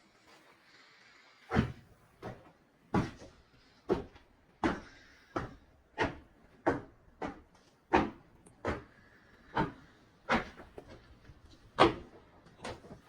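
Footsteps crunching in deep snow at a slow walking pace, about fifteen steps.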